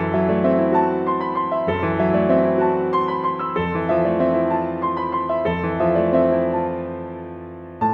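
Calm piano music: slow, sustained chords changing every second or two, with a soft melody on top, fading near the end.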